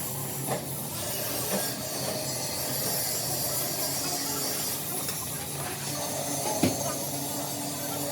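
Workshop machinery running with a steady hum and hiss, broken by a few sharp metallic knocks, the loudest about two-thirds of the way through.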